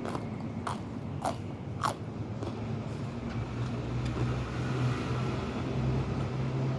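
A person eating: four short crunchy bites or chews in the first two seconds, about half a second apart, over a steady low hum.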